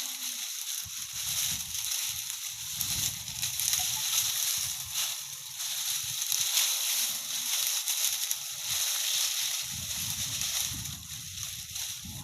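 Rustling and crackling of dry crop leaves and stalks being pulled and gathered by hand for animal fodder, with patches of low rumble on the microphone.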